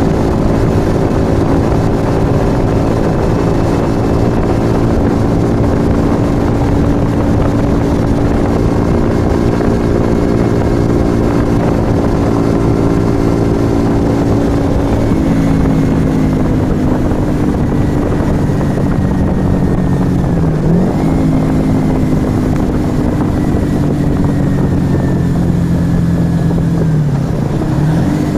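Yamaha XV125 Virago's small air-cooled V-twin running through a Turbo Kit aftermarket exhaust at steady cruising revs. About halfway the revs drop, then twice they dip briefly and pick up again.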